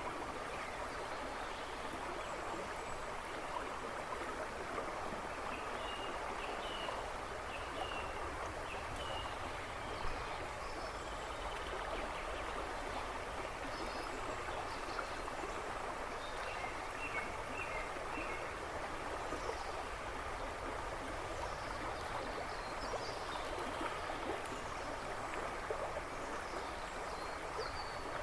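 River water rushing and babbling steadily over stones, with small forest birds chirping faintly in the background now and then.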